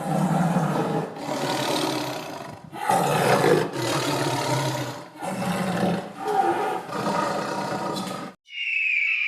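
A large animal roaring, several rough roars one after another with short breaks between them.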